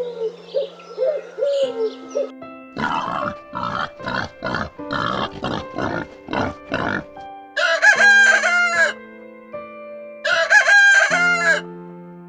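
A rooster crowing twice, each crow about a second long, in the second half, after a run of about eight short rapid calls. A repeated low call fills the first two seconds. Sustained music notes run underneath.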